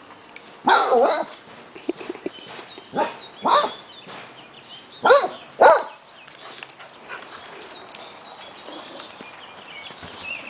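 A dog barking in play: five barks in the first six seconds, then only quieter scuffling sounds.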